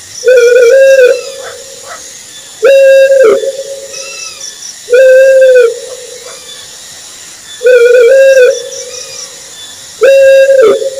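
An owl calling: a clear, level-pitched hoot repeated five times, each call under a second long and coming about every two and a half seconds. Faint high chirps from other small creatures sound between the calls.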